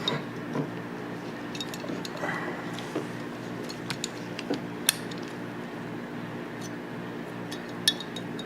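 Steel parts of a Tokarev TT-33 pistol clicking and clinking as they are handled and fitted together during reassembly. There are scattered sharp clicks, the loudest about five seconds in and another near the end, over a steady low hum.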